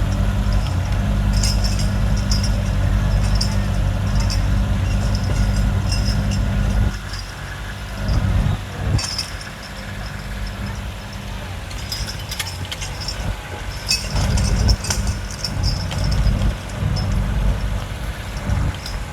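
Mini excavator's engine running steadily. It drops away about seven seconds in and comes back about seven seconds later, with short high clicks scattered through.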